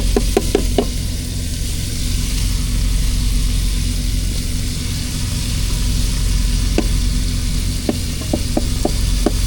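Ground meat sizzling as it browns in a frying pan, a steady hiss. A quick run of sharp taps at the start and again near the end.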